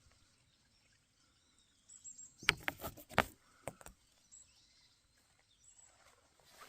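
Dry leaf litter and twigs rustling and snapping underfoot on the forest floor. A short cluster of crackles comes a couple of seconds in, followed by a few fainter ones.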